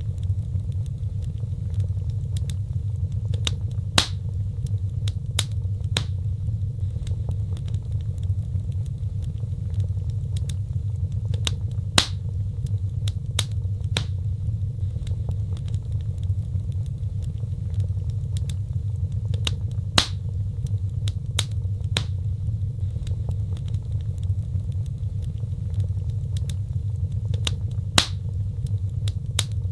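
Wood fire crackling: a steady low rumble of flames with scattered sharp pops and snaps, the loudest pops coming about every eight seconds.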